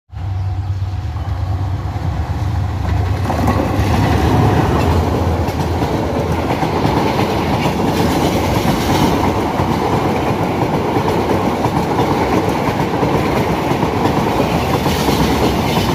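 Passenger train passing close at speed: a low steady hum for the first three seconds, then about three seconds in the loud, steady noise of the coaches going by, with the wheels clattering over the rail joints.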